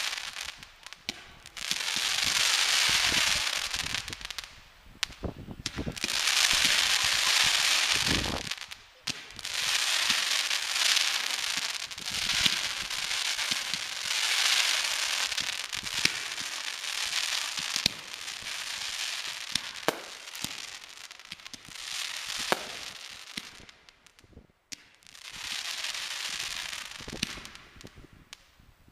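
Fireworks going off in a string of volleys, each a couple of seconds of dense crackling with sharp bangs among them. There is a short lull near the end before a last crackling burst.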